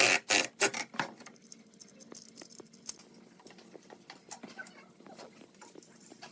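A few rubbing strokes on wood, like hand filing or sanding, that stop about a second in. Faint small taps and scratches follow.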